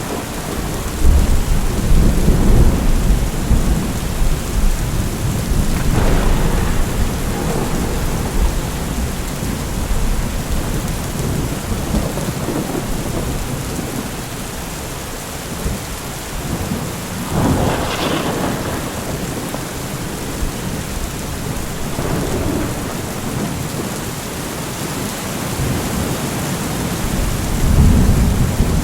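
Thunderstorm: steady heavy rain with rolling thunder, deep rumbles in the first few seconds and again near the end, and a sharper, closer crack of thunder a little past halfway.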